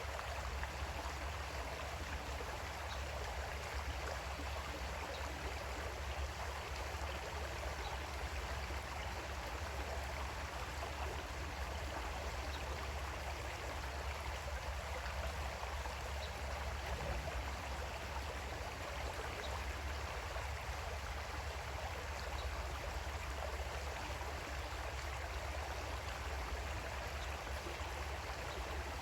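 Creek water flowing steadily over rocks, a continuous rushing and babbling with no break.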